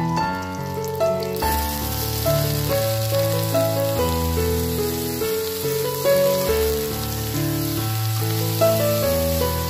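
Pork pieces sizzling as they fry in a hot wok. The hiss starts about a second and a half in, under steady instrumental background music.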